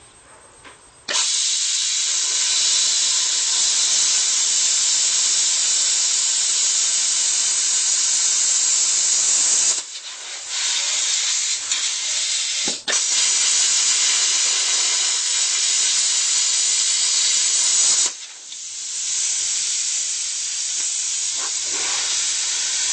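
Hypertherm Powermax 30 plasma cutter cutting through horseshoes: a loud steady hiss of the arc and air jet. It starts about a second in, falters around ten seconds, cuts out for a moment near thirteen seconds, then resumes. At about eighteen seconds it drops to a softer, continuing hiss of air.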